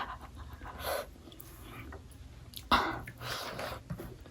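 Quiet chewing with a few short, sharp breaths, about three of them, from someone eating chilli-hot chicken biryani and reacting to the heat.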